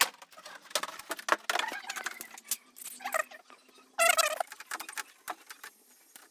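Quick clicks, clinks and rattles of tools and metal parts being handled while air-conditioner units are dismantled. A brief high-pitched squeak or ring comes about four seconds in.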